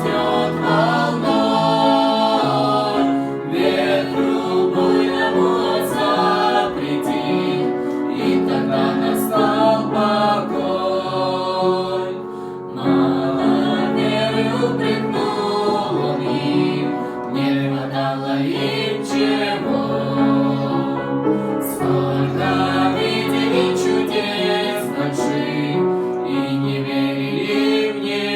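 Choral music: a choir singing with sustained accompanying notes.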